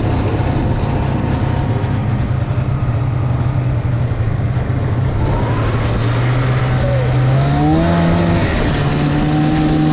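Snowmobile engine running steadily under way. Its note steps up in pitch about three-quarters of the way through and holds the higher speed.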